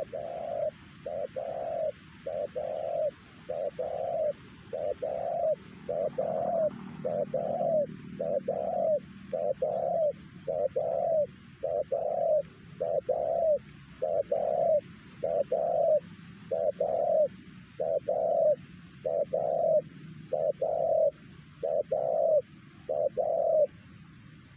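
Spotted dove (terkukur) cooing over and over, a steady string of low coos slightly more than one a second, which stops about a second before the end.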